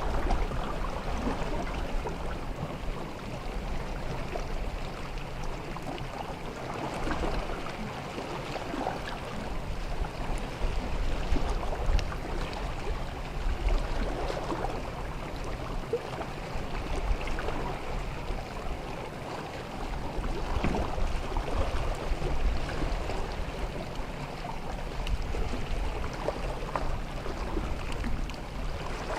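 Sea water washing and lapping on a beach, a continuous wash that swells and eases every few seconds.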